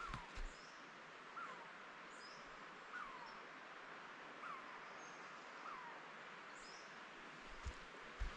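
A bird calling: a short downward-sliding note repeated about every second and a half, with a few faint high thin calls from other small birds over a soft steady hiss.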